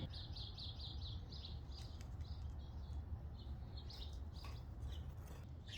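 Pet budgies (budgerigars) chirping softly: a quick run of short high chirps at first, then scattered single chirps, over a steady low hum.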